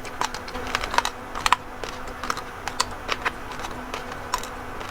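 Close-miked chewing of raw rice grains: irregular sharp, crisp cracks as the hard grains break between the teeth.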